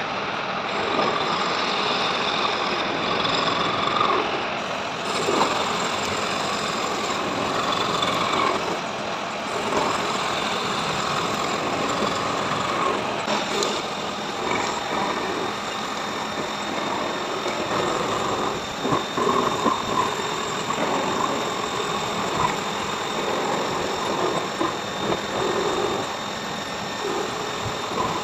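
Heavy CNC machining noise: a machine running steadily with a constant high whine and irregular rattling of the cut.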